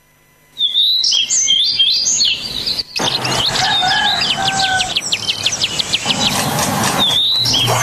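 Birds chirping and singing, many short whistles and chirps, starting suddenly about half a second in and growing busier from about three seconds.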